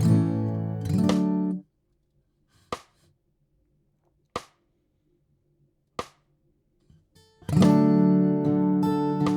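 Acoustic guitar strummed in a folk strum pattern, chords ringing, that stops about one and a half seconds in. Three single ticks follow, about a second and a half apart, and the strumming starts again near the end.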